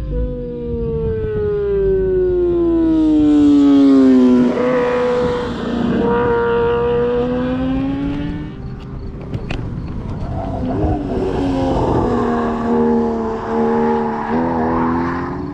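Motorcycle engine running with wind rushing past. Its note falls steadily over the first four seconds or so as the revs drop, then holds and shifts up and down again in the second half.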